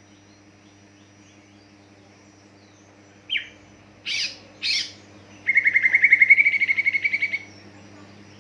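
Green leafbird (cucak ijo) calling: a short falling note, two harsh, scratchy notes, then a rapid trill of about two seconds. A steady low electrical hum sits underneath.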